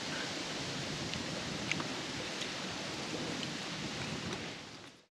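Steady outdoor rushing hiss with a few faint, sharp clicks, fading out to silence near the end.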